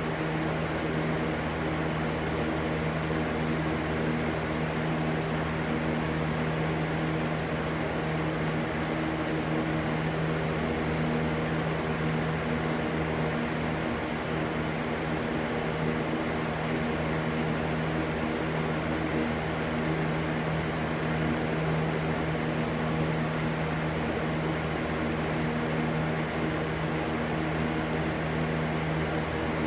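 Steady white noise: an unbroken rushing hiss with a constant low hum underneath, unchanging throughout.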